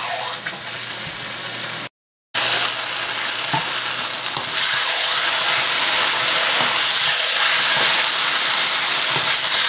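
Potato chunks and spice masala sizzling as they fry in a pot, stirred with a wooden spatula. The sizzle cuts out for a moment about two seconds in, then comes back louder and grows louder again about halfway through.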